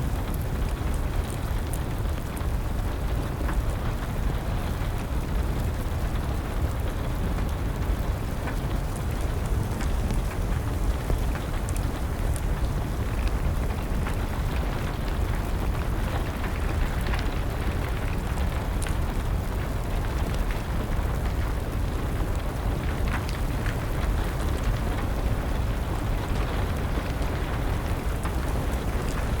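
Wood fire crackling with scattered small pops over a steady rush of rain and a deep, even rumble.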